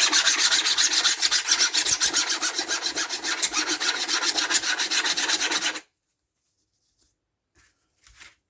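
Metal file rasping along the edges of a chainsaw's laminated guide bar in quick, even strokes, several a second, to take off the burrs that have built up on the bar. The filing stops abruptly about six seconds in, leaving a few faint taps.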